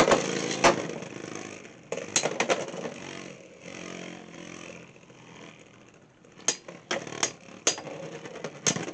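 Beyblade X spinning tops battling in a plastic stadium: sharp clacks of the launch and collisions, then a steady whirr of the tops spinning for several seconds, followed by more sharp clacks and knocks near the end.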